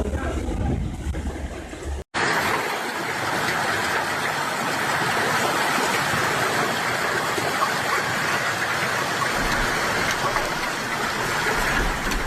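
Wind buffeting the microphone for about two seconds. Then, after a sudden cut, a dense, steady rush of hail and heavy rain falling.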